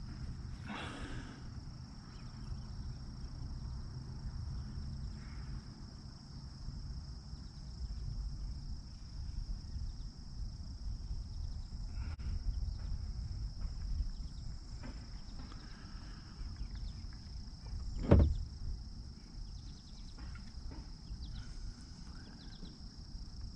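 Steady high-pitched insect chorus, with low rumbling handling noise underneath and one sharp knock about eighteen seconds in.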